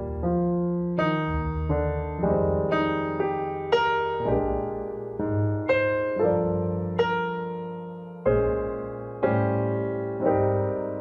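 Background piano music: chords and notes struck about every half second to second, each decaying before the next.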